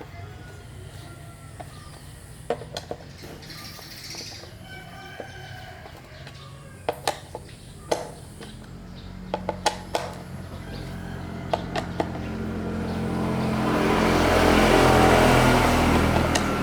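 Birds chirping with a few sharp clicks and knocks, then an engine that grows louder over several seconds, at its loudest near the end before easing off slightly.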